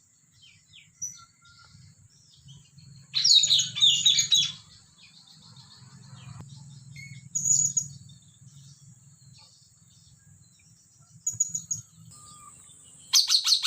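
Blue-rumped parrot (nuri tanau) calling: scattered bursts of sharp, high chirps, then a fast run of repeated calls, about seven a second, starting just before the end.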